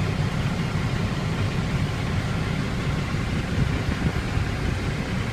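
Dump truck's Cummins ISX diesel engine idling, a steady low rumble heard from inside the cab.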